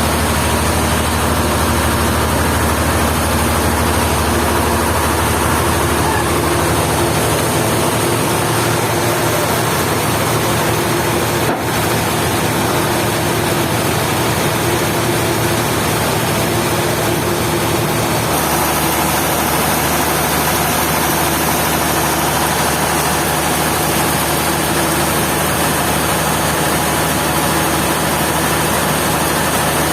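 Sawmill machinery running steadily with a heavy engine-like hum that shifts in pitch about a quarter of the way in and again a little past halfway, with one sharp click near the middle.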